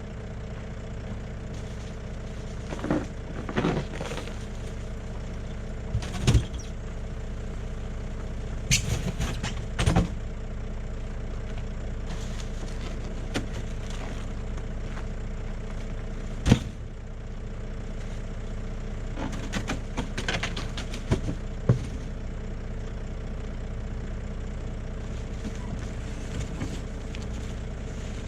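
Truck engine idling steadily, with a series of short knocks and clunks scattered over it.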